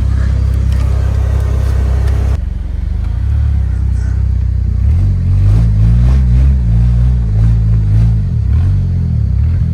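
Truck engine running, then working with its pitch rising and falling as the truck is driven out through snow. The sound changes abruptly a couple of seconds in.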